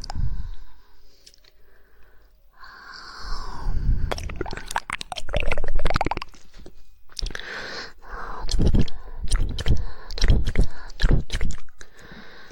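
Close-miked ASMR mouth sounds: runs of rapid tongue clicks in the 'woodpecker' style, with wet mouth noises and breathy hiss between them.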